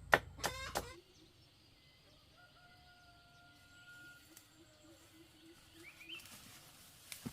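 Chickens clucking loudly in quick repeated calls for about the first second, then the sound drops suddenly to a quiet background with a faint, drawn-out call and a few faint chirps.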